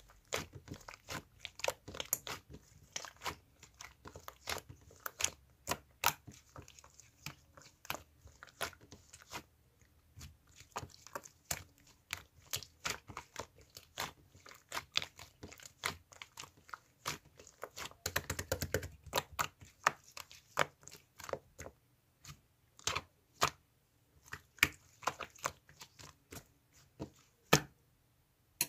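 Close-up crunching and crisp clicks, irregular and several a second, like crunchy food being chewed near the microphone, with a denser, louder cluster a little past the middle.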